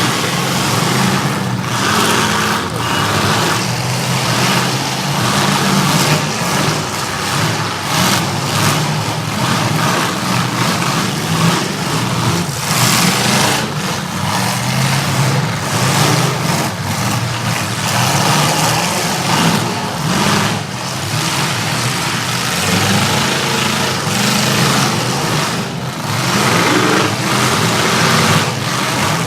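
Demolition derby trucks' engines revving hard and rising and falling in pitch, with repeated bangs and crashes of metal as the trucks ram each other.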